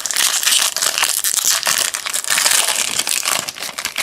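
Plastic wrapper of a trading-card pack being torn open and crumpled, a loud continuous crinkling that stops just before the end.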